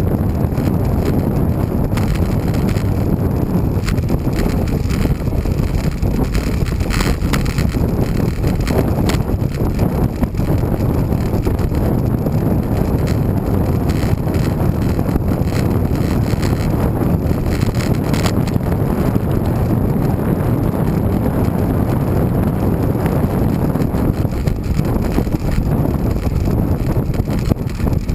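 Wind buffeting the microphone of a camera riding on a moving road bike: a loud, steady low rumble, with a few faint clicks.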